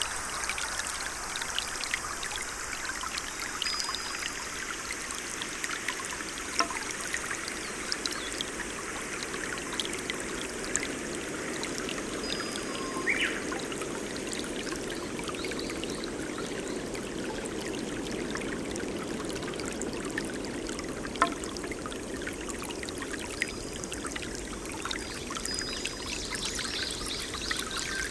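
Water running and trickling steadily, like a small stream, with many small drips and splashes throughout and a few faint, short, high tones now and then.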